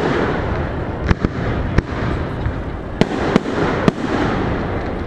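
Aerial fireworks shells bursting in a string of sharp bangs over steady background noise.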